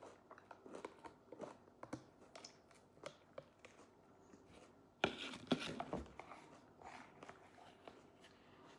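Close-up eating and food-handling noises: a run of small clicks and crackles, with a louder rustling, crinkling burst about five seconds in.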